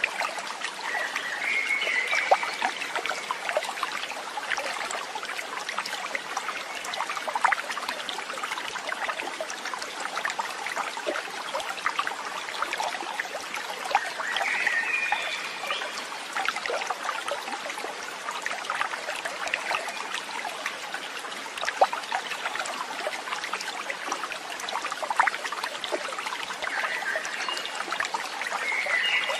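Running water trickling and babbling steadily, like a small stream over stones, with a few brief calls rising above it three times.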